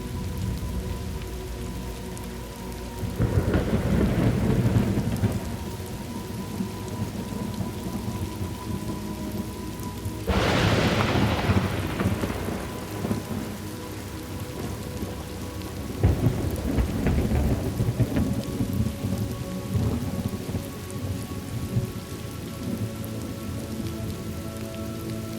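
Thunderstorm: steady rain with three rolls of thunder, about three, ten and sixteen seconds in; the middle one is the loudest and opens with a sharp crack.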